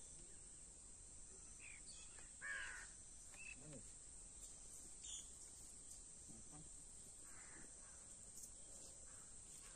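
Quiet outdoor ambience with a few faint, short bird calls, the clearest about two and a half seconds in.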